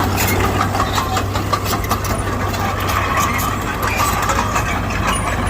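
Bulldozer diesel engine running steadily under a constant low drone, with frequent irregular clicks and clatter.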